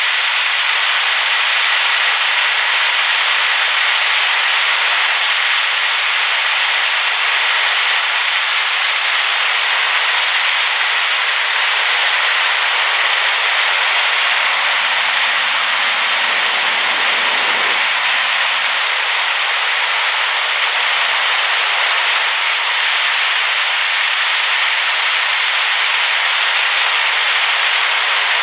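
Steady roar of a rain-swollen waterfall, falling water making a loud even hiss with little deep rumble. A little low-pitched rumble comes in for a few seconds around the middle.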